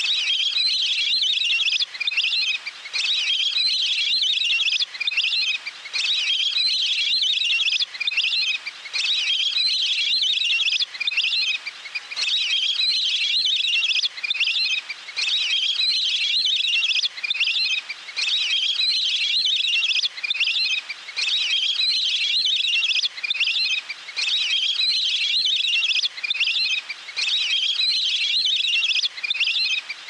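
Shrill, high-pitched bird calls in dense chattering bursts of one to two seconds, split by short breaks and repeating over and over.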